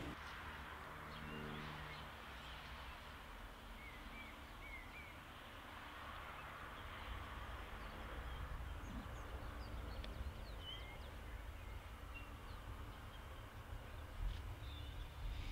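Small birds chirping now and then over a steady low rumble. A faint engine hum fades out in the first two seconds and a weaker hum returns about halfway through.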